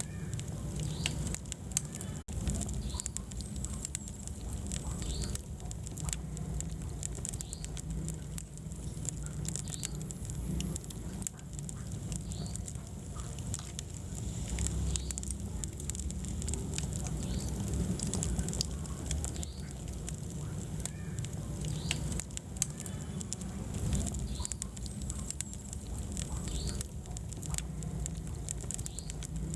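Wood fire burning in a fireplace: a steady low rumble of flames with many small crackles and pops scattered irregularly throughout.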